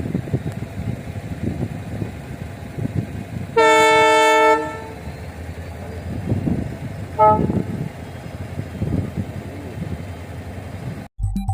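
Train horn sounding one blast of about a second, then a short toot some three seconds later, over the steady rumble of the train running. Electronic music starts abruptly near the end.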